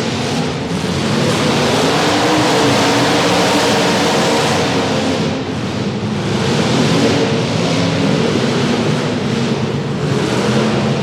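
Demolition derby cars' engines running and revving together, a dense, steady mass of engine noise with no single clear crash standing out.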